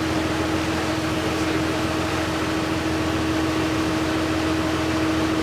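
Steady hum inside a tour van, a constant drone with one held tone over even noise, as from the vehicle's engine and air-conditioning blower.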